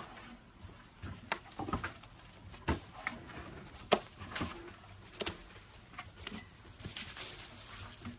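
Slime being handled, giving irregular sticky clicks and squelches, the sharpest about four seconds in.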